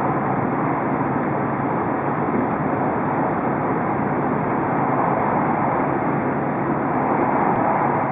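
Steady cabin noise of an E5 series Shinkansen running at speed, an even rush of air and running noise heard through the carriage window.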